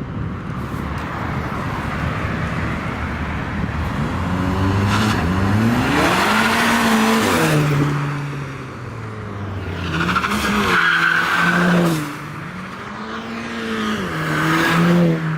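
Volkswagen Golf GTI and Golf R cars accelerating hard one after another, their engines rising in pitch and dropping back at gear changes. There are three loud surges.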